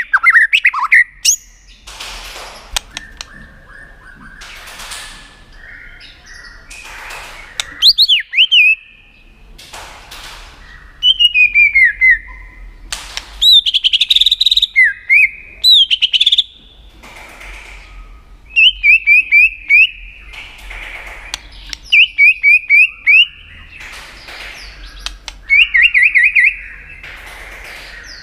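White-rumped shama giving its sharp 'tạch' calls: loud bursts of rapid, repeated chirping notes, each burst about a second long and coming every two to three seconds, mixed with a few gliding whistled notes. Short rushes of noise come between the bursts.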